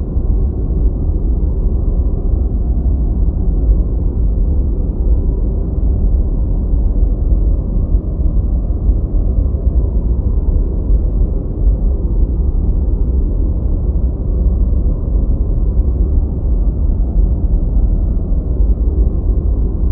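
Steady, deep white noise: an unbroken low rushing rumble with little hiss on top, holding the same level throughout.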